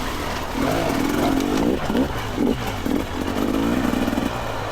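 Two-stroke dirt bike engine running at low revs on a trail, the throttle opened and closed in several short surges so the pitch rises and falls.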